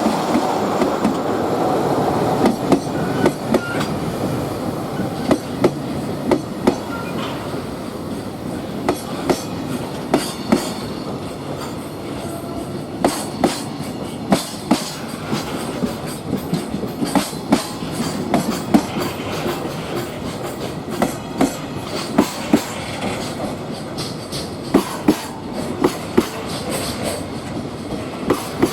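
Freight train running past, with a steady rumble and wheels clacking over rail joints in repeated groups.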